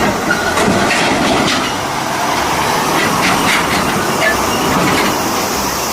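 Steady, dense mechanical rumbling and clatter with faint scattered clicks, starting and stopping abruptly.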